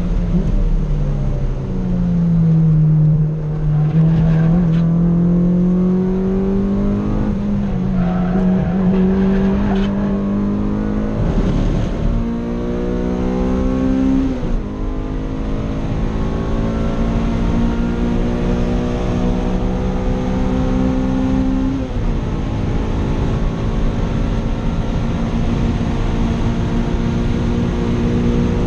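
Honda Civic's engine heard from inside the cabin under hard driving. The revs fall over the first few seconds, then climb through the gears, with upshifts that each drop the pitch suddenly, the clearest about fourteen and a half and twenty-two seconds in.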